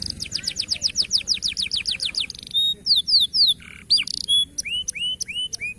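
Domestic canary singing: a fast trill of downward-sweeping notes, about eight a second, then a few slower falling whistles and, near the end, a series of short rising notes.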